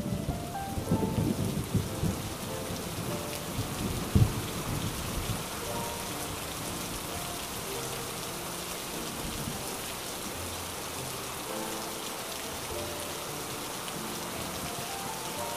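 Steady rain with thunder rumbling through the first few seconds, including one sharper crack about four seconds in, then rain alone.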